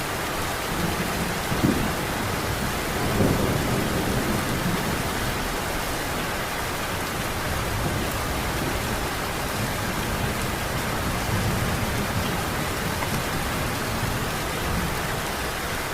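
Heavy rain falling steadily, a dense even hiss of drops, with low rumbles of thunder swelling about a second and a half in, again around three seconds in, and more softly later on.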